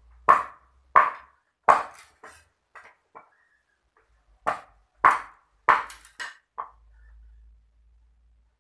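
A run of sharp knocks, one about every two-thirds of a second, that pauses for about a second and a half midway and then starts again.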